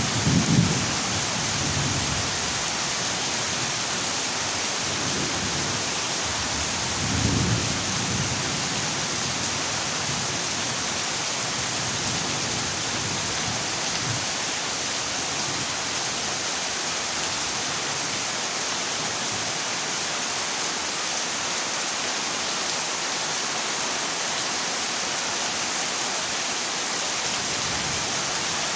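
Heavy rain drumming steadily on a corrugated metal roof, with a low thunder rumble at the start and another about seven seconds in.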